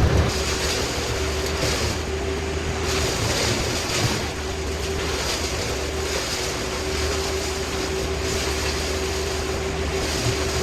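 An engine-driven machine running steadily, with a constant hum and a steady rushing noise.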